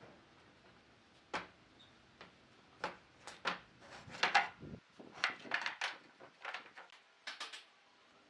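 A dozen or so irregular wooden knocks and taps, some in quick pairs, of wood being worked and handled.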